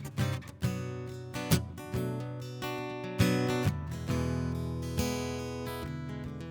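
Guitar strummed in slow chords, each stroke left to ring into the next: the instrumental introduction of a song, before the vocals come in.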